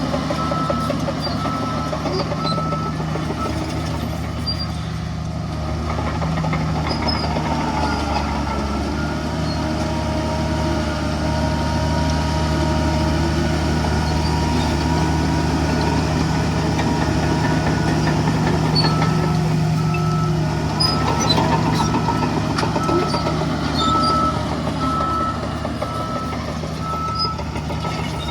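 Heavy diesel engines of earthmoving machinery and dump trucks running steadily, with a reversing alarm beeping repeatedly for the first few seconds and again through the last third.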